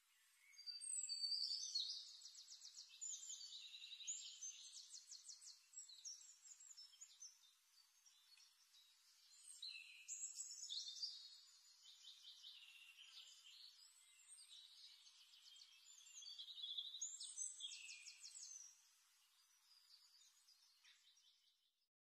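Faint birdsong: high chirps and rapid trills in three bursts, near the start, about halfway through and again late on.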